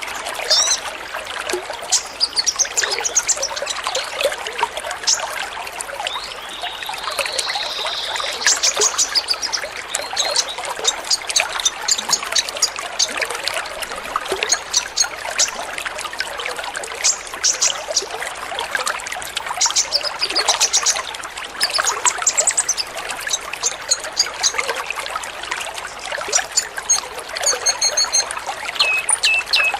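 Many kolibri ninja sunbirds chirping and twittering together in quick, high notes over a steady trickle of running water.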